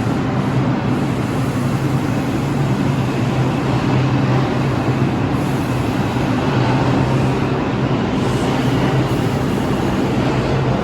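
New York City subway train running through the station: a steady loud rumble with a constant low hum.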